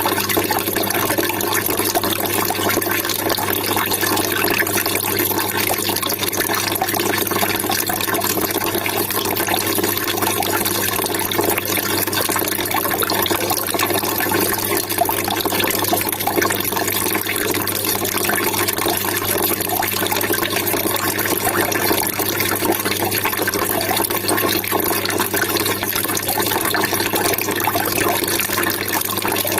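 Water trickling and splashing steadily, an even babbling rush with no breaks.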